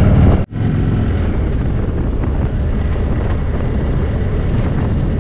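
Indian motorcycle's V-twin engine running steadily under way, with wind rushing over the microphone. The sound cuts out for an instant about half a second in.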